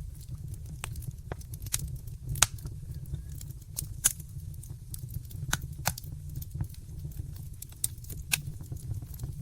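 Wood fire crackling in a fireplace: irregular sharp pops and snaps, about a dozen, over a steady low rumble, with the loudest snap about two and a half seconds in.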